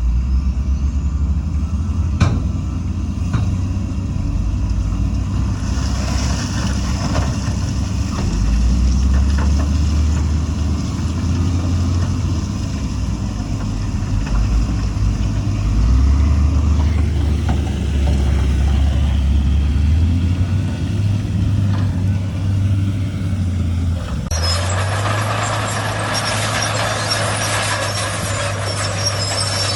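Heavy diesel construction machinery running, the engine note stepping up and down as it works under load. About 24 seconds in, the sound changes abruptly to a steadier engine note under a loud hissing clatter.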